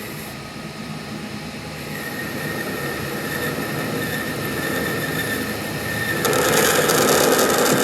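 Workshop machine running with a steady high whine that grows louder, turning into a harsher, louder grinding noise about six seconds in.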